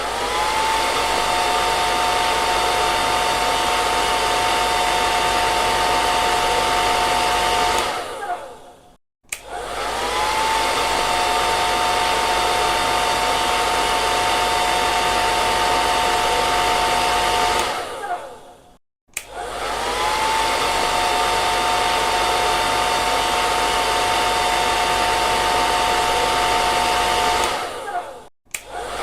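Hair dryer blowing with a steady motor whine over the rush of air. Three times it winds down to a moment of silence and restarts, its whine rising quickly as the motor spins back up.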